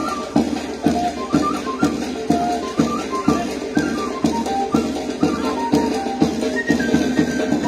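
Amazonian pandilla folk music. A drum beats about twice a second under a melody that steps up and down in short held notes.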